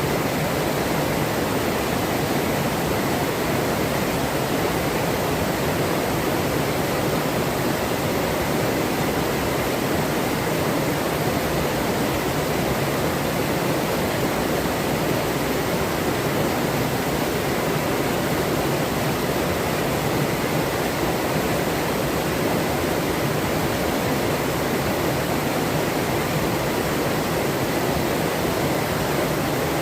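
Forest river flowing: the steady, even sound of running water.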